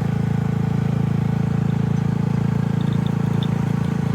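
Steady, loud rush of falling water from a waterfall, heaviest in the low range.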